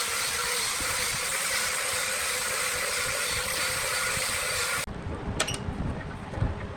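Wood lathe running, with the steady hiss of the spinning workpiece being worked. The hiss cuts off abruptly about five seconds in, giving way to a lower, uneven rumble and a sharp click.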